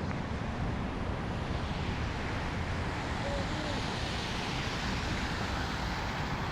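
Steady city street noise: a constant rushing hum of traffic, with no single event standing out.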